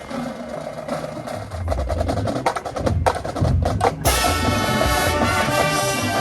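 Band music: a run of rapid percussion clicks and drum strokes, then about four seconds in the full band comes in with held chords.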